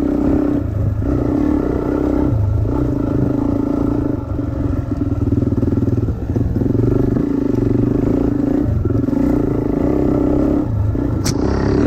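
Dirt bike engine running under throttle, easing off and picking up again about every two seconds as the rider rolls off and back on or shifts. A single sharp click near the end.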